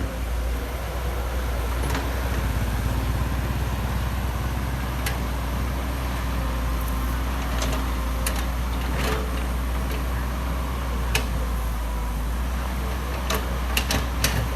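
Excavator's diesel engine running steadily under load, with scattered sharp knocks and clanks, a cluster of them near the end, as the bucket works the wood and soil.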